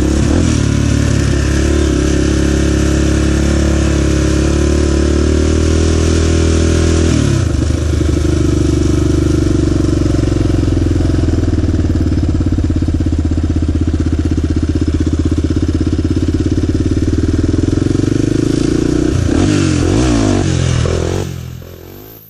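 A small off-road vehicle engine running loudly under way, its pitch stepping down about a third of the way through and rising and falling with the throttle near the end, before the sound drops away shortly before the end.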